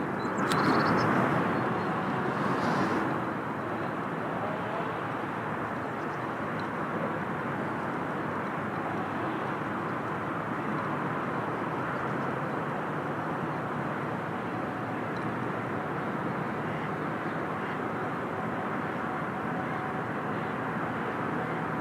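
Steady outdoor background noise with a low rumble throughout. In the first three seconds there is a louder swish with a sharp click.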